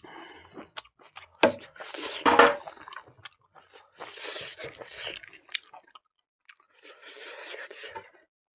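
A person chewing food close to the microphone, with crunching bites and small clicks. The loudest crunches come about one and a half and two and a half seconds in.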